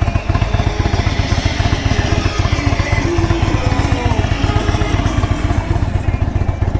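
2019 Indian Chieftain Dark Horse's Thunder Stroke 111 V-twin, fitted with a stage 1 intake and stage 2 cams, idling steadily at minimum throttle while still warming up.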